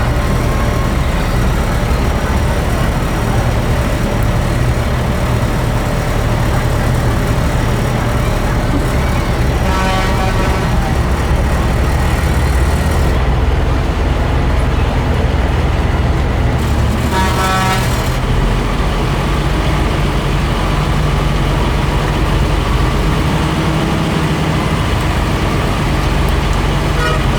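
Military truck's engine running steadily with a strong low drone, with two short pitched sounds about ten and seventeen seconds in.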